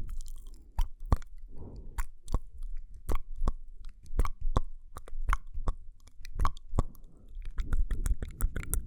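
ASMR mouth sounds close to the microphone: a string of sharp, wet clicks and smacks, irregular, about two a second.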